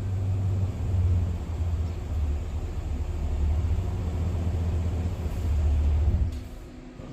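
Cadillac Escalade's V8 idling through a custom valved (variable) exhaust, a deep, steady rumble with a few slight swells. The rumble drops away sharply about six seconds in.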